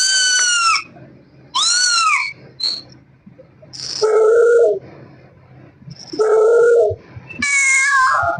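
Kittens meowing: five drawn-out meows about a second apart, three high-pitched and two lower ones in the middle.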